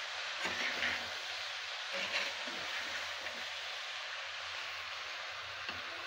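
Chopped vegetables sizzling in hot oil in a clay pot as a steel ladle stirs them, with a few soft scrapes of the ladle about half a second in and around two seconds in.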